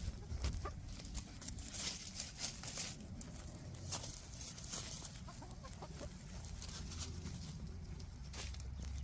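Backyard hens clucking quietly while they roam, with many scattered short rustles and clicks over a low steady rumble.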